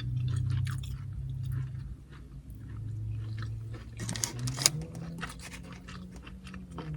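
Close-up chewing of a mouthful of carne asada nachos, with many crisp crunches of tortilla chips, heaviest about four seconds in, over a low steady hum.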